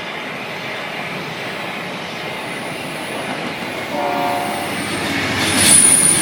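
Amtrak passenger train passing, its wheels rolling on the rails with a steady rumble. A short horn note sounds about four seconds in, and a louder high-pitched squeal comes near the end.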